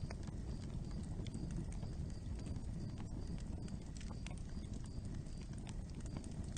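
Wood fire burning: irregular crackles and pops over a steady low rumble of the flames.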